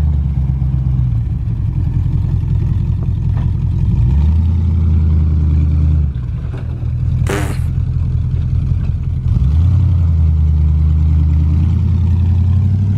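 Lifted 4x4 pickup truck's engine revving under load as it drives up a hill, swelling in two long surges, with one brief sharp noise midway.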